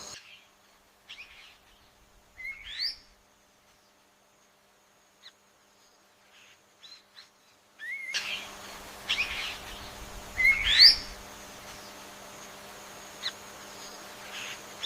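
Birds calling: scattered short chirps and two loud rising whistled notes. A steady background hiss and hum come in abruptly partway through.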